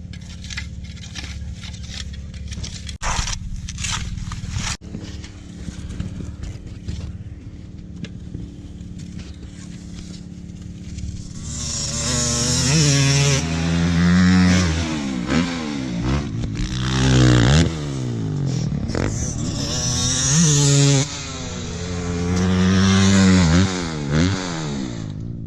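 Dirt bike engine running low and steady, with scraping and clattering knocks over it. About halfway through it is revved hard in four or five surges that climb and fall in pitch, as the bike accelerates and backs off.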